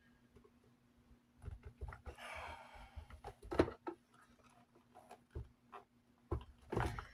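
Handling noises from a desk fan being taken apart: scattered knocks and clicks of its plastic and metal parts, with a short scraping rub about two seconds in.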